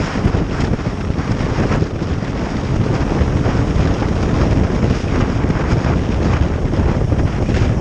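Steady wind rushing over the microphone of a moving motorcycle, with road and engine noise of the riding bike underneath.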